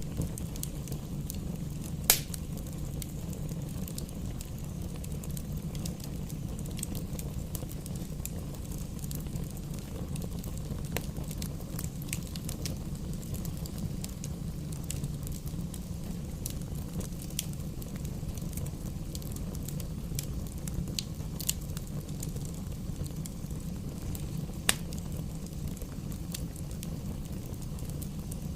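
Wood fire burning in a fireplace: a steady low rumble of flames with scattered crackles of burning logs. Two louder, sharper pops stand out, about two seconds in and near the end.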